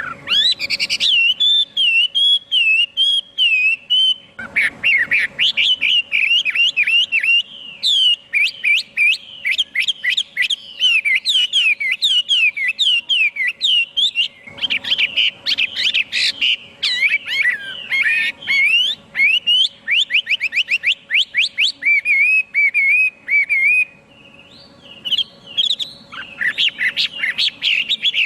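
Chinese hwamei (melodious laughingthrush) singing a loud, long, varied song of rapid whistled phrases, its notes sweeping quickly up and down, with a short lull near the end before it starts again.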